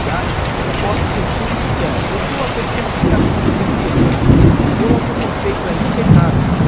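Steady rain falling, with low rumbles of thunder swelling about three seconds in and again near the end.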